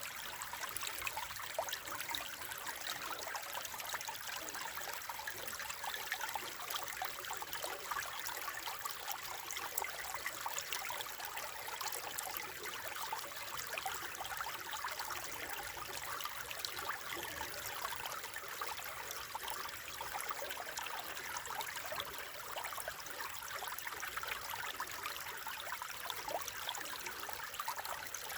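Small stream babbling and trickling, a gentle, steady flow of water.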